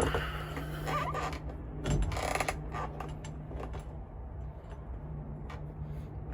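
Creaks and scattered light knocks of parts being worked into place by hand, over a steady low hum.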